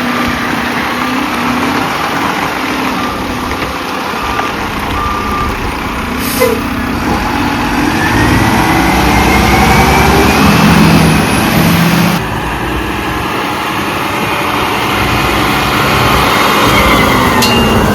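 Garbage truck running at close range, its engine note rising in pitch partway through as it revs.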